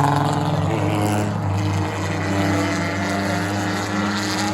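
Engines of several cars in an any-car enduro race running together on the track, the pitch of one falling as it passes by at the start.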